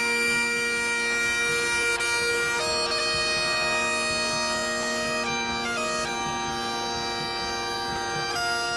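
Biniou braz (Breton bagpipe) and bombarde playing a tune over the bagpipe's steady drone, the melody holding each note and stepping to the next every second or two.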